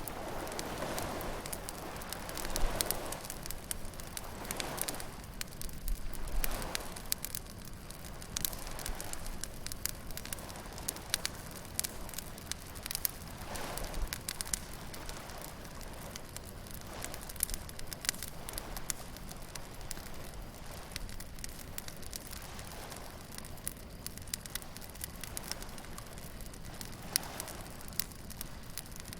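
Beach bonfire of burning wood crackling and popping in quick, irregular snaps, with waves washing in softly underneath every few seconds.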